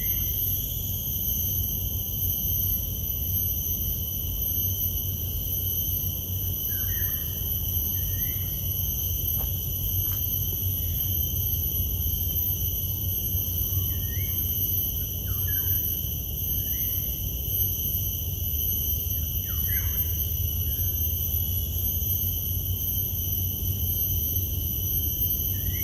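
Steady, high insect drone with a few short bird chirps, over a steady low rumble.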